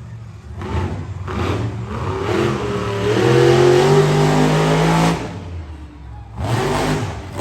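Monster truck engine revving in short throttle blips, then held at high revs for a few seconds before the throttle is cut suddenly, with another quick rev near the end.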